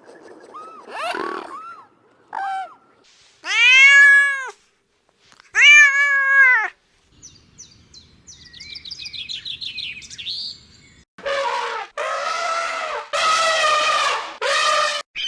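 A cat meowing: two long, arching meows a couple of seconds apart, then a run of quick, high chirping calls, then several loud, harsh, drawn-out cries.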